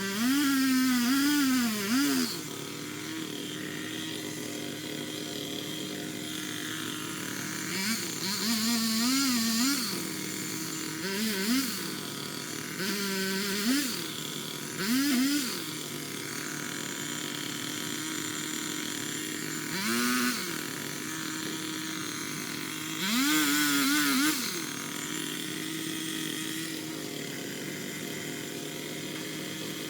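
Engine of a Craftsman power limb cutter (pole saw) idling steadily and revved up in about seven bursts of one to two seconds, the pitch rising and sagging within each burst as it cuts limbs. The longest bursts come at the start and about 23 seconds in.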